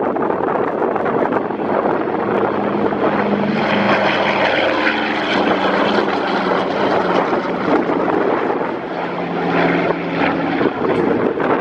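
Douglas DC-3's twin radial piston engines and propellers droning, the steady engine tone coming up about two seconds in and fading near the end, under heavy wind buffeting on the microphone.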